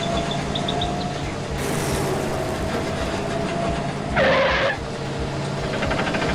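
Steady engine running of a cartoon construction vehicle, heard as a low hum. About four seconds in, a brief louder warbling sound lasts about half a second.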